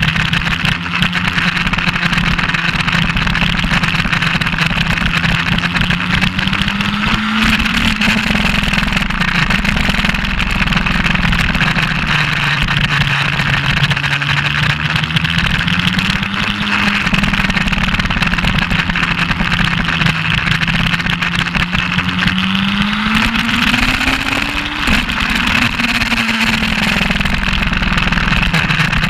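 Suzuki GS1200SS inline-four engine running hard on a race circuit, heard from on board with a steady rush of wind. The engine pitch climbs and drops back about a third of the way in, around the middle, and most sharply near the end.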